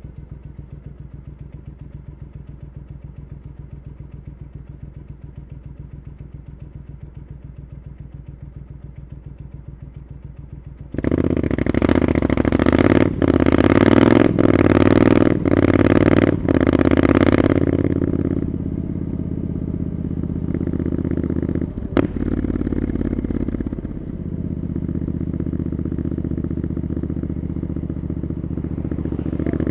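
Triumph Scrambler 900's parallel-twin engine through Arrow exhaust pipes, ticking over steadily at first. About eleven seconds in it opens up hard, and the note breaks four times in quick succession. It then settles into steady running, with one sharp click partway through.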